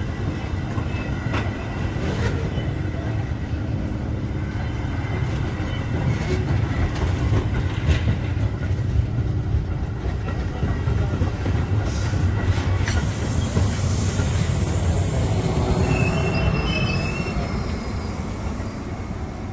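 A train rolling past at trackside: a steady rumble of wheels on rail with scattered clicks, and a brief wheel squeal about three-quarters of the way through. It fades near the end.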